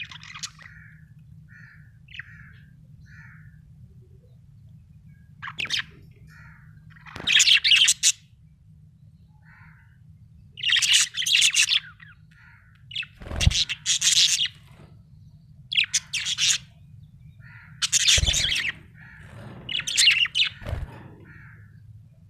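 Small parrot chirping: loud bursts of rapid high chirps, each about a second long and several seconds apart, with soft single chirps in between. A faint steady low hum runs underneath.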